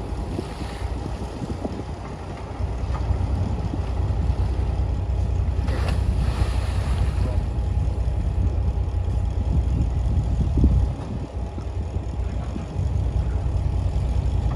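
Diesel engine of heavy earthmoving machinery running, a loud low rumble that eases briefly about two seconds in and again around eleven seconds.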